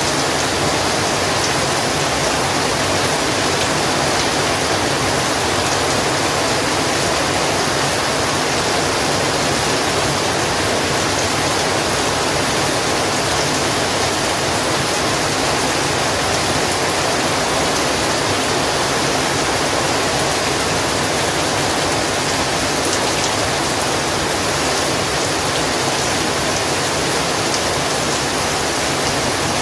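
Heavy rain falling steadily, a dense even hiss of downpour with no let-up.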